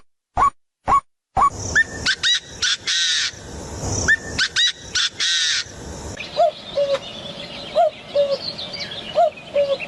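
Bird calls, with no speech: a few short rising calls with silence between them, then an abrupt change about a second and a half in to a busier recording with several birds calling over background noise. From about six seconds in, a low two-part call repeats about once a second.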